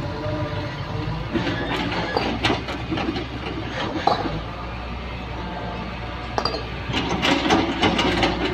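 Hydraulic excavator's diesel engine running steadily under load, with repeated metallic clanks and knocks from the working machine, bunched more densely near the end.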